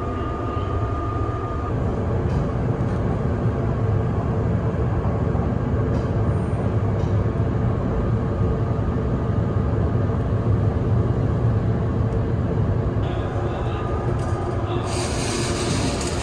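Kintetsu Vista Car limited express running on the rails, heard from inside a passenger compartment: a steady low rumble of wheels and car body. About a second from the end a brief higher hiss sets in over the rumble.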